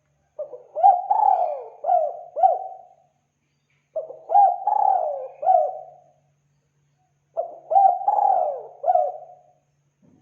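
Spotted dove (tekukur) cooing: three phrases of four or five notes each, about a second apart.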